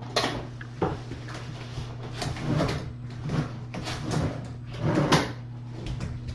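Household objects being handled: a string of irregular knocks and scraping rustles, like drawers or cupboard doors being opened and shut, over a steady low hum.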